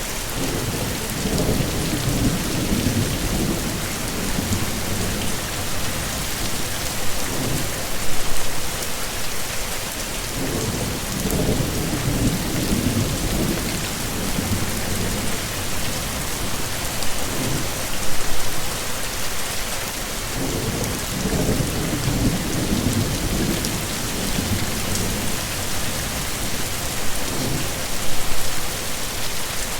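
Steady heavy rain with low rumbles of thunder coming and going several times, and a short louder swell about every ten seconds.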